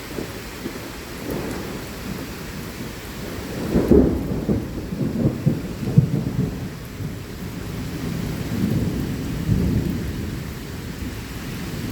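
Thunder rolling and rumbling for several seconds over steady heavy rain, loudest about four to six seconds in.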